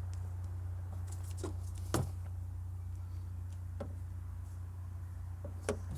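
A few faint clicks and taps of hands handling the headlight bulb socket and its wiring, over a steady low hum.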